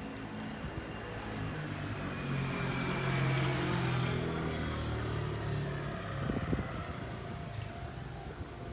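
A motor vehicle passing by: its sound swells to a peak about three seconds in and fades, with a few knocks near the end.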